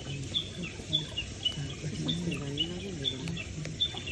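Crickets chirping steadily: short, high chirps repeat about two to three times a second. A faint voice murmurs low underneath about two seconds in.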